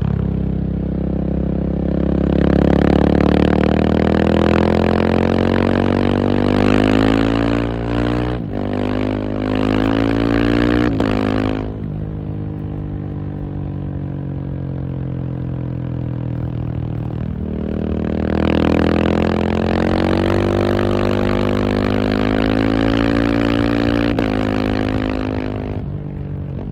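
KTM 690 SMC R's single-cylinder engine being ridden, its pitch climbing under acceleration with brief cuts about eight and eleven seconds in. It then runs lower and steadier, climbs again from about eighteen seconds, and falls away near the end.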